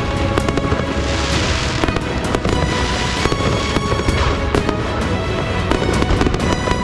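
Aerial fireworks going off in a dense, continuous barrage of rapid bangs and crackles, with hissing swells about one and three seconds in, over steady music.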